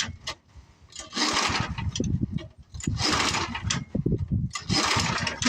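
Tecumseh engine on an old Craftsman snowblower being pull-started: three rope pulls about two seconds apart, each cranking the engine over with the rasp of the recoil starter, without it catching. The choke is off, which is why it won't start.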